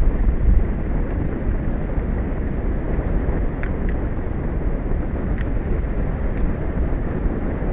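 Steady low rumble of wind buffeting an exposed outdoor microphone, with a few faint short high ticks or chirps about halfway through.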